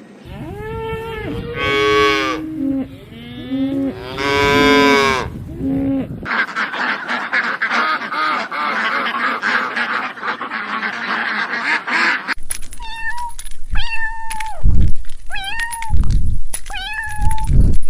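A sequence of farm animal calls in three clips: first a few long, drawn-out pitched calls, then a dense chorus of many animals calling at once, then a run of short repeated calls over low thumps.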